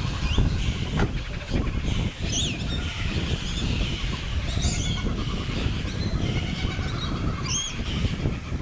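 Birds calling, a short call that swoops up and down repeated about every two and a half seconds (three times), over a steady low rumble.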